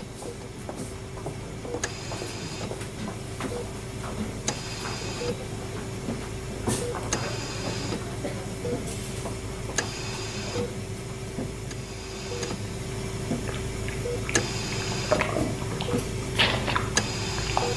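Eerie mechanical hospital ambience: a steady low hum with one held tone under it, faint blips about once a second, and a short hiss every two to three seconds. Scattered clicks and knocks grow more frequent near the end.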